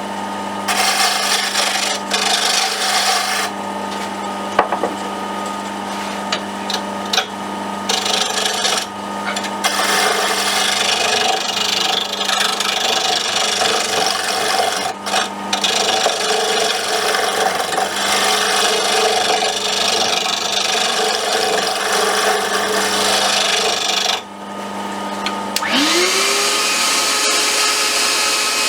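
Wood lathe running with a steady motor hum while a hand-held turning tool cuts and scrapes a wooden popper lure blank, shaping it down. The cutting noise comes and goes, with a short pause a few seconds before the end, followed by a short rising whine.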